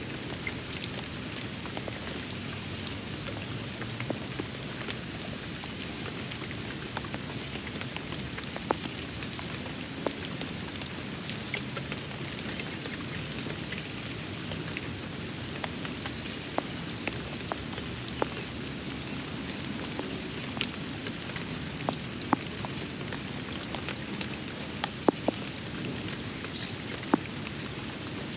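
Steady rain falling on a backyard pond, with scattered sharp drop impacts close by.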